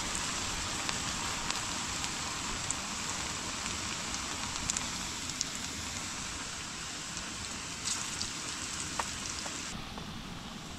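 Vegetable and paneer fritters deep-frying in hot oil in a steel pan: a steady sizzling hiss with scattered small pops and crackles.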